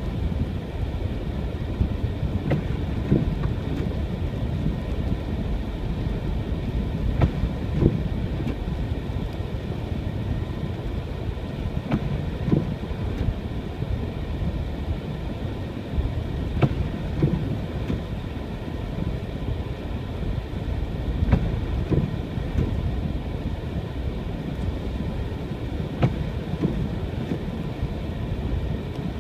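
Car driving on snow-covered roads: a steady low rumble of engine and tyres, with scattered short knocks.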